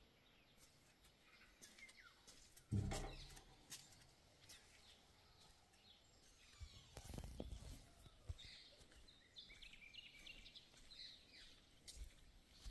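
Faint outdoor quiet with small birds chirping, mostly in the second half. A sudden low thump comes about three seconds in, and a low rumble follows around seven seconds in.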